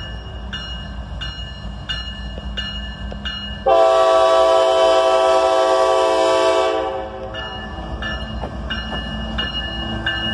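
A CSX diesel locomotive's air horn sounds one long blast of about three seconds, a few seconds in, over the locomotive's low engine rumble. A grade-crossing bell dings steadily about twice a second before and after the blast.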